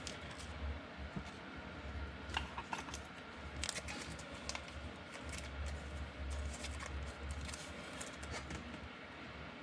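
Football trading cards and packs being handled: irregular soft clicks and rustles of cards sliding and flipping, over a steady low hum.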